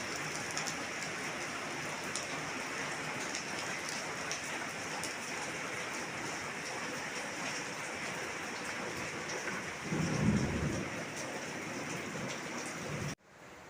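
Steady heavy rain falling, with a brief low rumble about ten seconds in. The rain sound cuts off abruptly near the end.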